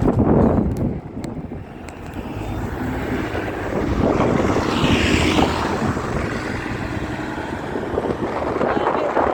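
Strong sandstorm wind rushing and buffeting the microphone, mixed with road traffic noise. A louder rush swells and fades about halfway through.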